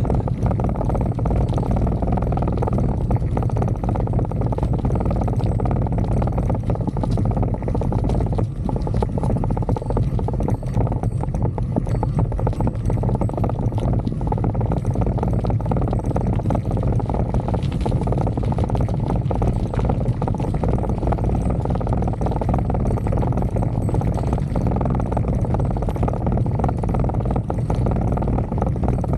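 Wind buffeting the microphone during a fast downhill bicycle ride, with the bike rattling and knocking continuously over rough ground.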